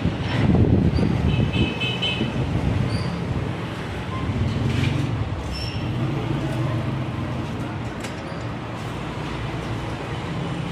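Road traffic running, a steady low rumble, with a short vehicle horn sounding about one and a half to two seconds in.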